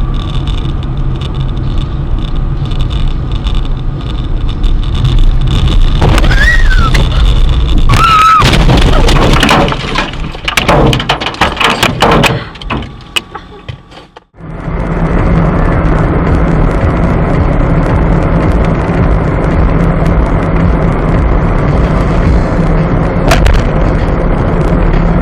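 Dashcam car recording of steady engine and road noise. From about eight to thirteen seconds in, a run of bangs and crunches typical of a collision is heard. After an abrupt cut at about fourteen seconds, there is steady road and engine noise again.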